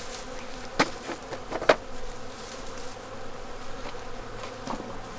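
Honeybees buzzing steadily around an open hive, with two sharp knocks about a second apart near the start.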